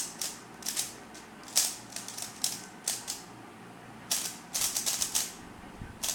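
Plastic clacking of a new Thunderclap 3x3 speedcube being turned by hand on its first turns: separate sharp turns, then a quick run of fast turns about four to five seconds in.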